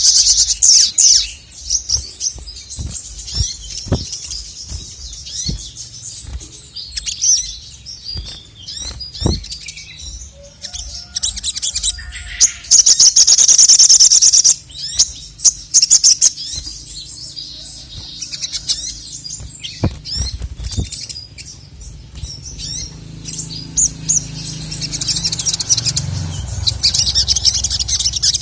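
Male sogok ontong (sogon) sunbird singing loudly: long bursts of rapid, very high trilling at the start, about halfway and near the end, with scattered short chirps between. A few sharp low thumps are also heard.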